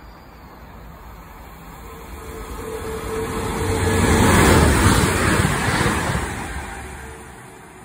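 Electric multiple-unit passenger train passing along the platform: its rumble and wheel noise swell to a peak about halfway through, then fade away.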